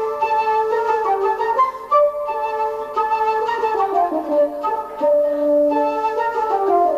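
Flute playing a melody over held accompanying notes, with a falling run of notes midway, in a progressive rock band's live performance. The sound is dull, with no high treble, as on an amateur cassette recording.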